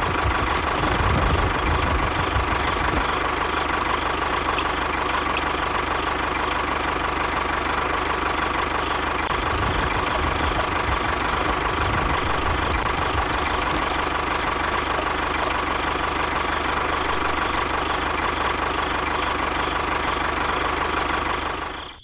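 An engine idling steadily for the whole stretch, with a low rumble and a steady hum running through it.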